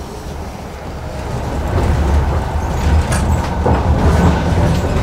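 Sleeper carriage of a moving passenger train, heard from inside: a steady low rumble that grows louder about two seconds in, with a few sharp clanks.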